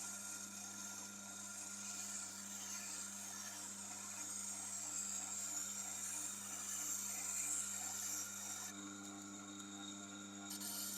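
Tormek sharpener's motor running with a steady hum while a knife blade is held against its turning wheel, giving a hissing scrape that swells and fades with the strokes. The scrape stops for a moment about nine seconds in, then resumes.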